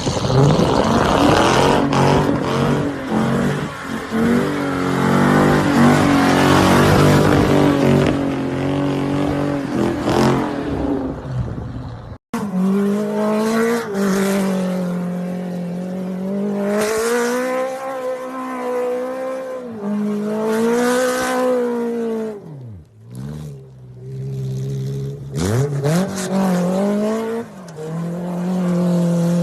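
High-powered car engines at full throttle, thick with noise for the first twelve seconds or so, then an abrupt cut to an engine revving up and down, its pitch dropping sharply twice near the end before climbing again.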